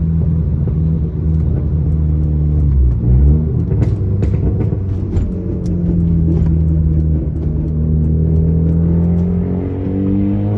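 Modified Volkswagen Mk4 Jetta engine under hard acceleration, its note climbing through the revs, dropping briefly at a gear change about three seconds in, then rising again near the end. A scatter of short clicks is heard in the middle.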